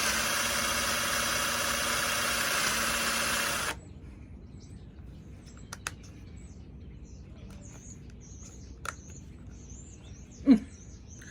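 Cordless drill motor running steadily, then cutting out abruptly a few seconds in, its battery running flat so that it lacks the power to drive the screw. A few faint clicks follow, with one short loud sound near the end.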